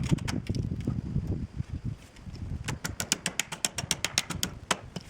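A low rumbling handling noise, then, about halfway in, a quick run of sharp clicks, roughly ten a second, lasting nearly two seconds, with one more click near the end.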